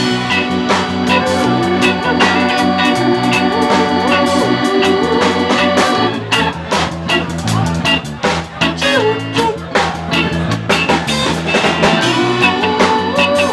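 Live reggae band playing an instrumental passage without vocals, keyboard organ and guitar over a steady bass and drum beat.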